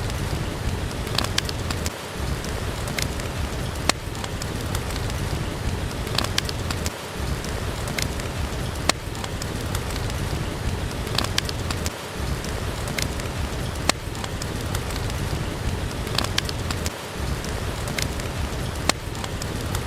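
Steady rain hissing, with a wood fire crackling in scattered sharp pops every second or so.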